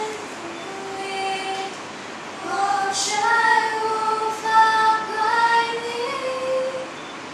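A woman's voice singing unaccompanied: a short note about a second in, then long held notes that step up slightly in pitch toward the end.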